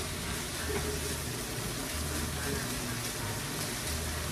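Stir-fry of chicken, zucchini, onion and ramen noodles sizzling steadily in a frying pan, stirred with a spatula.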